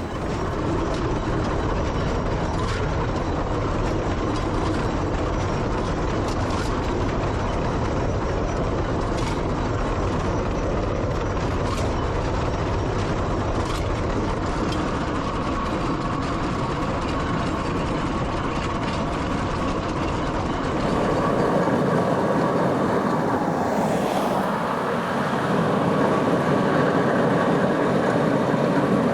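Steam traction engine on the move along a road: a steady mechanical running noise that shifts in character about 21 seconds in and again near 25 seconds.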